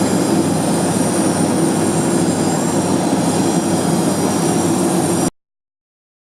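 Airbus A321-200 jet airliner's engines running, a loud steady rush with a thin high whine over it, cut off abruptly about five seconds in.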